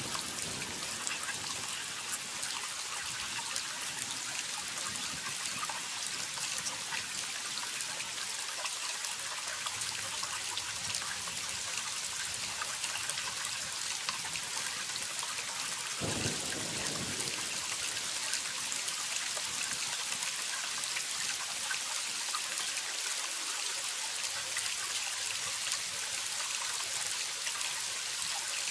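Waterfall: falling water splashing steadily, a continuous hissing rush thick with small splashes and drips, with a brief deeper surge about halfway through.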